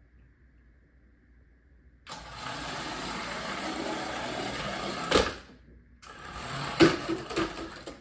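Small electric motor and plastic gears of a Paw Patrol Marshall remote-control toy fire truck whirring as it drives, in two runs: one starting about two seconds in and lasting some three seconds, the other starting about six seconds in. Each run has a sharp knock near its end.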